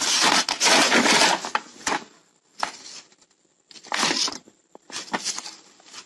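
Packaging crinkling and rustling as it is handled and pulled open: a long dense rustle for about the first two seconds, then a few shorter crinkles.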